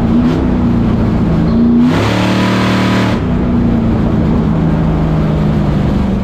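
Plymouth Belvedere drag car's engine running loud and steady during a test pass down the strip, with a louder, harsher surge about two seconds in that lasts about a second.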